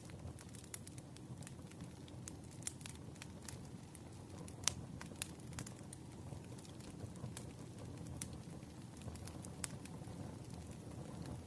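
Campfire logs burning, crackling with frequent sharp pops over a steady low rumble of flames. One louder pop about four and a half seconds in.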